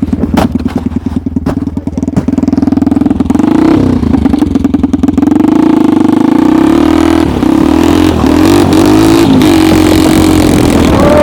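Small engine of a homemade tracked snowmobile running under load, choppy and uneven at first, then revving up about three seconds in and pulling hard, with a few brief drops and recoveries in revs near the middle.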